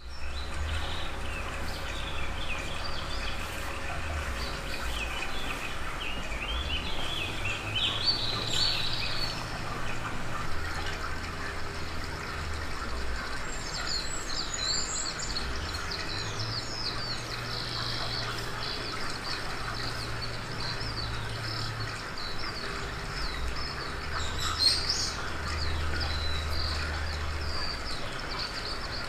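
Birds chirping over a low hum that shifts in pitch every few seconds.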